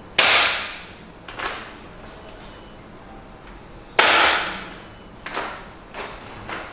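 A 500 ml spout pouch dropped in a drop test, giving two loud slaps about four seconds apart. Each slap is followed by a few smaller knocks as it settles or is handled.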